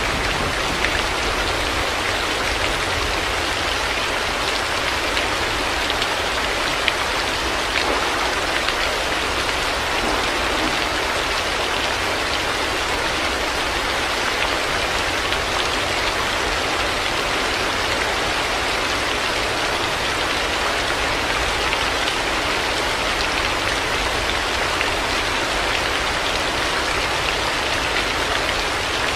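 Heavy rain falling steadily: a dense, even hiss of downpour with scattered drop ticks.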